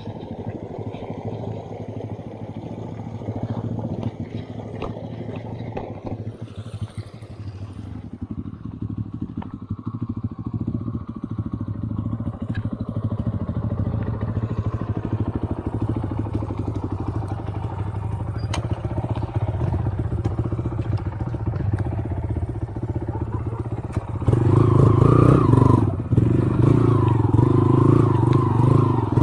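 Off-road motorcycle engine running steadily, growing clearly louder and revving higher a few seconds before the end.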